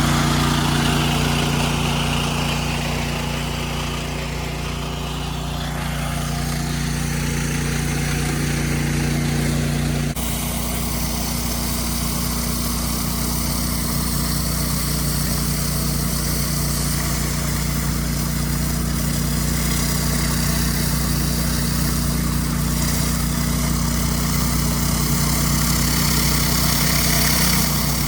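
An 8 GPM pressure washer's engine runs steadily under the hiss of high-pressure water spraying. About ten seconds in the sound changes abruptly and the spray hiss turns brighter.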